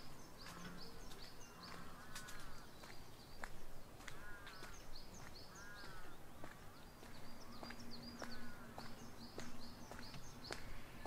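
Birds chirping and calling: a steady run of high chirps, with a few lower, arching calls every second or two. Soft, irregular footsteps tick underneath.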